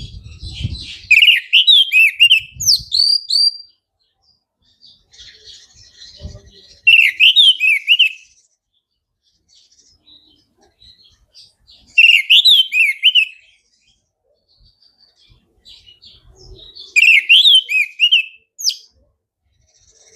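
Orange-headed thrush singing in four loud phrases of rapid, sweeping notes, each a second or two long and about five seconds apart, with quieter twittering in between.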